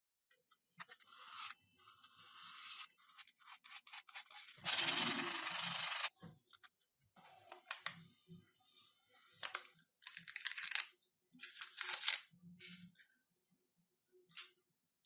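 Hand work on foam model-airplane parts: scattered rubbing and scraping strokes with small clicks, and a loud steady tearing sound lasting about a second and a half a little before the middle.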